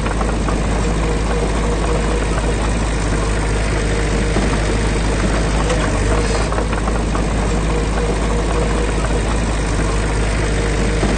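Heavy diesel engine of construction machinery running steadily at a constant pace, with a deep rumble throughout.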